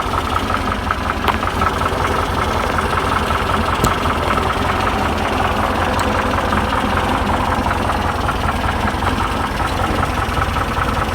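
VW T2 camper's 1641 cc air-cooled flat-four engine idling steadily with an even beat. It is a rebuilt engine that runs smoothly.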